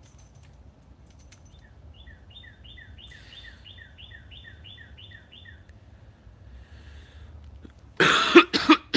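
A songbird singing a quick run of about a dozen down-slurred whistled notes, about three a second, over faint outdoor background noise. About eight seconds in, a much louder, harsh series of sounds breaks in.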